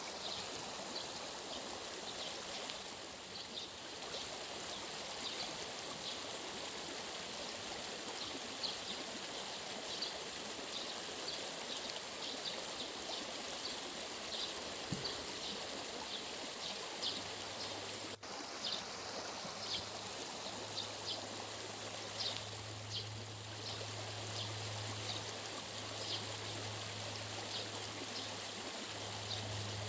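Steady rush of flowing stream water, with short high chirps scattered throughout. A low steady hum joins in a little past halfway.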